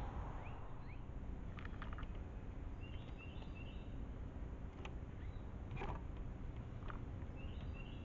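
Birds calling: a quick series of three short chirps about three seconds in and again near the end, with several short sharp calls or clicks in between, over a steady low rumble.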